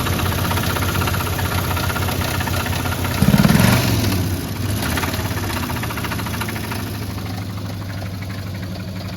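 Engine with a blown rod bearing idling with a steady rod knock, briefly revved about three seconds in, then settling back to idle.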